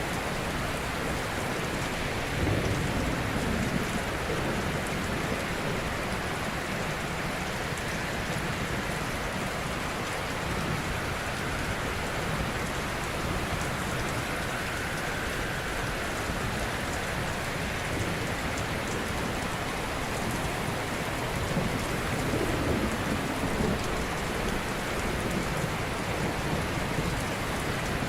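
Ocean surf: a steady hiss of waves washing on a shore, with deeper swells as waves break about two seconds in and again a little past twenty seconds.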